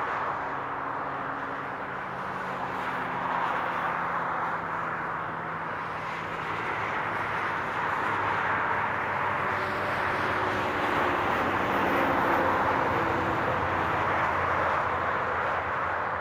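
Highway traffic: a continuous rush of tyre noise from passing vehicles, with a faint low engine hum, swelling and easing as vehicles go by.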